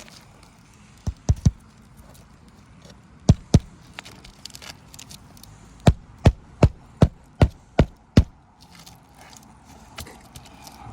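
Hand hammer driving roofing nails through asphalt shingles. There are a few quick groups of blows, then a run of seven steady strikes at about three a second near the end.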